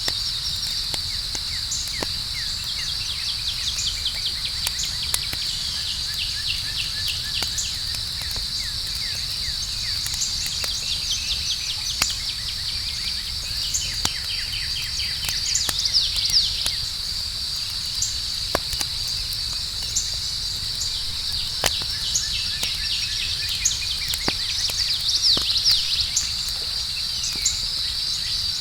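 Campfire crackling with scattered sharp pops, over a steady high chirring of crickets. The chirping swells in two louder flurries, about halfway through and near the end.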